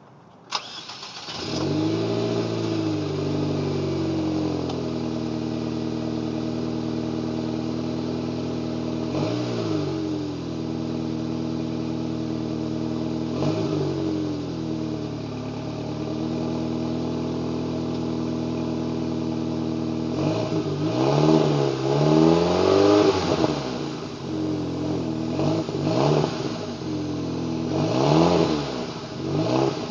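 A 2006 Saab 9-3's engine, with a modified stock exhaust, cold-starting after a click, catching about a second in with a brief rev, then settling to a steady idle. It is blipped a couple of times, then revved repeatedly in quick succession in the last third.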